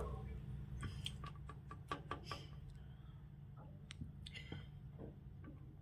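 Faint, irregular clicks and taps, mostly in the first half, over a low steady hum.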